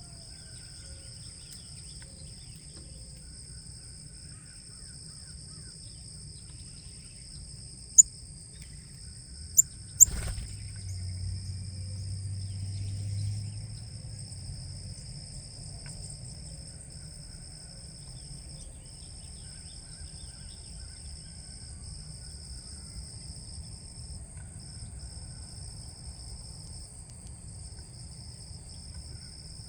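Steady high-pitched insect chorus, likely crickets, with faint bird chirps. About a third of the way in come three sharp knocks, followed by a low rumble lasting a few seconds.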